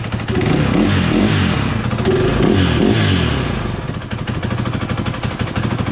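KTM 500 EXC's single-cylinder four-stroke engine blipped twice, its pitch rising and falling, then idling steadily; it sounds good, running well after a hard start.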